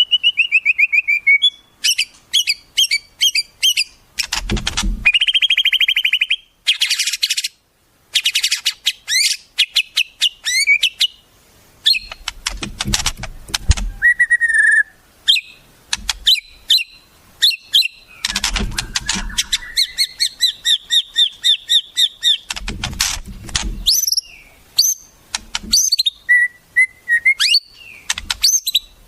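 Recorded wild songbirds calling and singing in quick succession: clear whistles, pitch slides and fast trills and chattering note series, with a few harsh, noisy calls in between.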